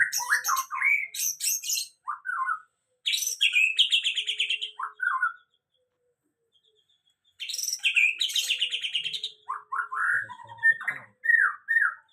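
White-rumped shama singing in full: varied clear whistled phrases mixed with fast rattling, chattering runs, with a pause of about two seconds midway. This is the full song of a bird just out of its moult and starting to sing out again.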